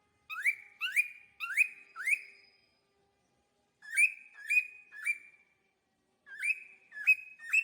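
Cockatiel calling with short rising whistles, in three bursts of three or four calls about half a second apart.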